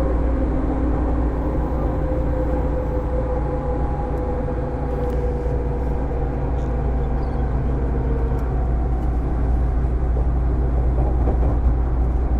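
Inside a JR 205-series electric motor car on the move: a steady heavy rumble of wheels and running gear, with the faint hum of its MT61 externally-fanned traction motors sliding slightly down in pitch over the first half.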